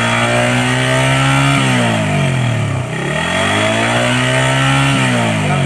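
Suzuki Raider 150 carburetted single-cylinder engine revved and held at high RPM, dropping back about one and a half seconds in, revved up again and held, then dropping off again near the end: revving to bring on the RPM shift-light indicator.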